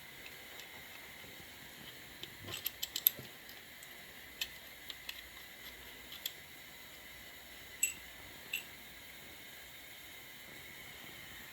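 Small metal tools and engine parts being handled during an engine teardown. They make scattered sharp clinks and clicks: a quick cluster about two and a half to three seconds in, then single ones every second or so, over a faint steady hiss.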